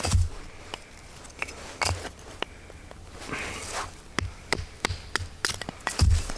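A Damascus-steel knife being batoned through dry deadwood with a wooden baton: a string of sharp, irregular wooden knocks, the heaviest near the start and near the end, with a short splitting rasp of the wood a little past the middle.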